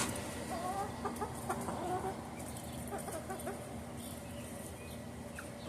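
Chickens clucking softly while they eat: a string of short, faint clucks that thins out after about three and a half seconds, over a faint steady hum.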